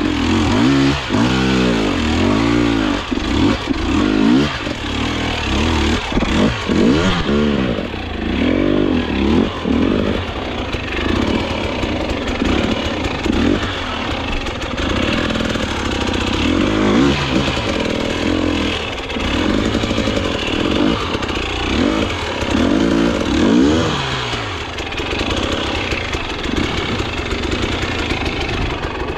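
Enduro dirt bike engine being ridden, revving up and down again and again as the throttle is worked, its pitch rising and falling every second or two.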